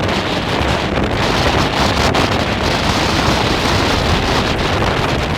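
Strong blizzard wind blowing over the microphone: a loud, dense, unbroken rush of wind noise.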